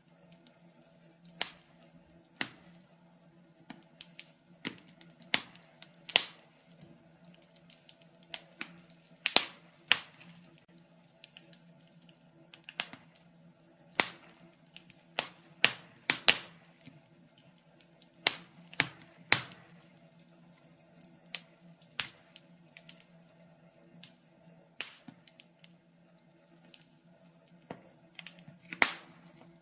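Wood fire burning in a fireplace, crackling with irregular sharp pops and snaps a few times a second, over a faint steady low hum.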